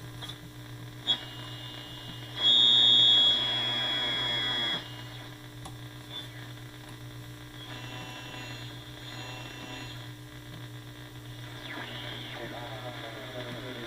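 GE T2259D radio being tuned across the AM band: a steady hum with static under it, and whistles that glide in pitch as the dial passes stations. The loudest whistle comes about two and a half seconds in and lasts about two seconds, with fainter ones later.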